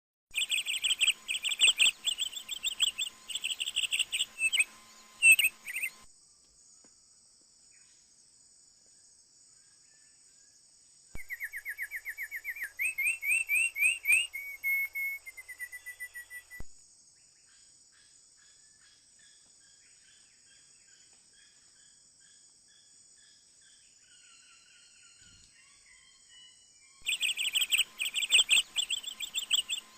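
A songbird singing rapid, loud chattering phrases that stop abruptly about six seconds in. In the middle comes a run of quick rising whistled notes that speed up, then faint scattered notes, and the chattering returns near the end. A steady high insect drone runs underneath throughout.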